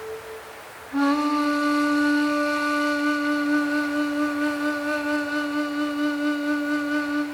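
Ambient music: a wind instrument holds one long, steady low note, entering about a second in after a brief lull and ending near the end.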